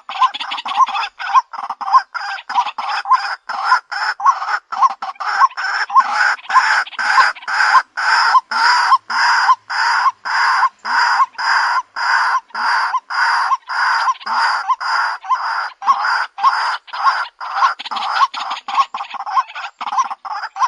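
White-breasted waterhen calling: a loud clucking note repeated rapidly and evenly, about two to three notes a second, throughout.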